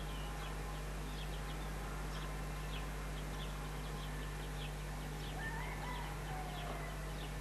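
Small birds chirping in short repeated notes, about two a second, with a longer gliding call about two-thirds of the way in, over a steady low hum.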